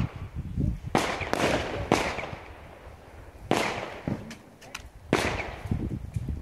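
Fireworks going off: four sharp bangs spaced one to two seconds apart, each trailing off in a long echo, with fainter pops in between.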